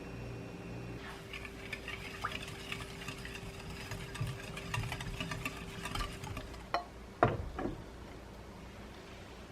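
Rapid light clinking and tapping of a utensil in a bowl or dish, as in stirring, over a steady appliance hum. A few louder knocks come near the end, one of them sharper than the rest.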